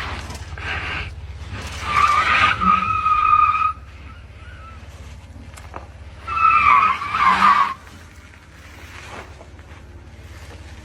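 Tyres squealing in two long bursts, about two seconds in and again about six seconds in, over a steady low hum.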